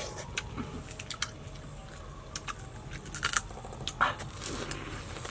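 Chewing and biting into crispy grilled frog: scattered sharp crunches and crackles, with a cluster of them a little after three seconds and the loudest crunch about four seconds in.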